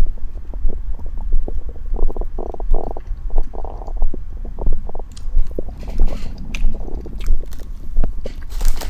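Bowel sounds: stomach and intestines gurgling, a steady low rumble with many quick bubbly pops, busiest about two to three seconds in. A few sharp crackles near the end.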